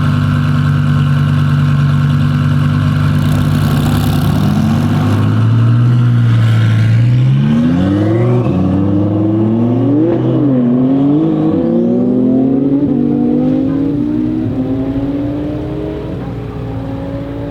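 Twin-turbo Audi R8 V10 engine running at a steady note for about five seconds, then accelerating hard. Its pitch climbs and drops back at several upshifts, and the sound fades toward the end as the car pulls away.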